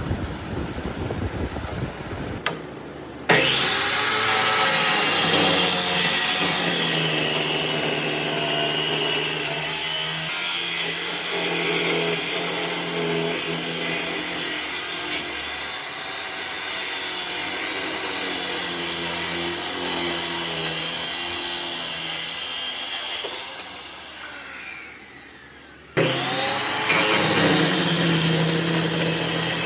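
Power tool working wood: a loud, steady running sound whose pitch shifts as the tool bears on the wood. It cuts in abruptly about three seconds in, dies away briefly about three seconds before the end, and cuts back in.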